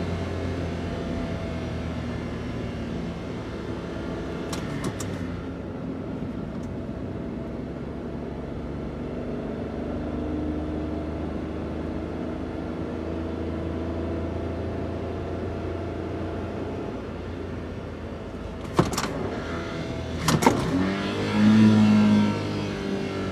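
Daihatsu Hijet kei van's stock 660 cc three-cylinder engine running on the move, its pitch drifting slowly up and down with speed. A sharp knock comes about four and a half seconds in and two more near the end, followed by a brief louder hum.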